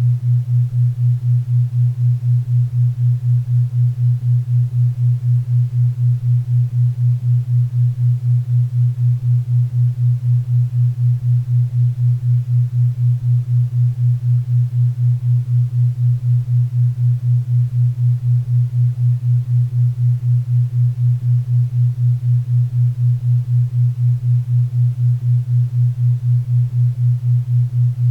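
4 Hz theta-wave beat: a low steady tone that pulses about four times a second, with faint pink and brown noise hissing underneath.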